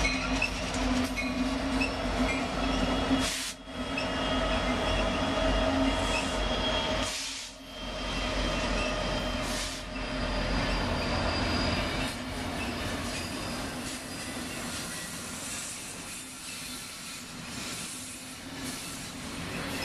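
Union Pacific diesel-electric freight locomotives rumbling past at close range, then double-stack container cars rolling by, with steady squealing from the wheels on the rails.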